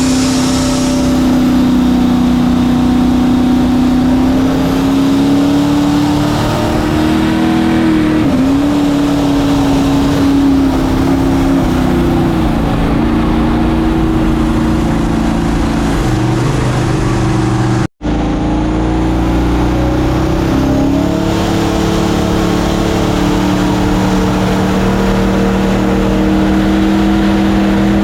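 Mini jet boat's engine running hard under way on E85, its pitch rising and falling as the throttle changes. The sound cuts out for an instant about 18 seconds in.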